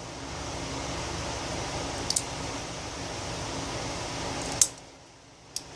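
Small sharp metallic clicks of derringer parts being handled, over a steady rushing noise that cuts off with the loudest click about four and a half seconds in.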